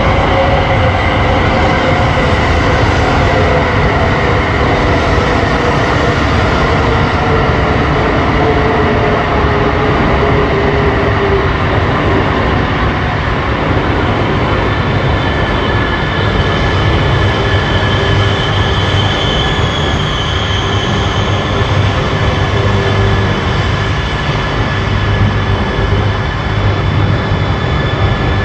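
Shinkansen bullet trains moving through the station: a steady rumble of wheels on rail, with a whine that falls slowly in pitch over the first half and higher steady tones from about halfway.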